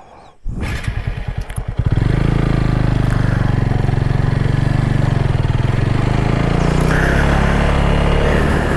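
Motorcycle engine ticking over briefly, then from about two seconds in running loud and steady as the bike is ridden, with wind rush on the helmet camera's microphone.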